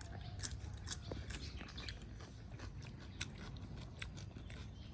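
Close-miked eating sounds: chewing and biting into crispy fried chicken drumsticks, with scattered small crunchy clicks over a low steady hum.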